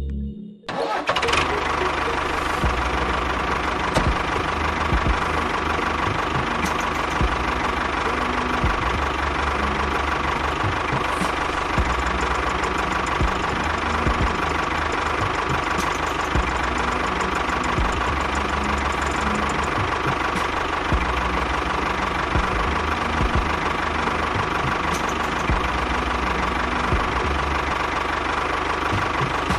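A small motor running steadily with a constant whine, starting about half a second in.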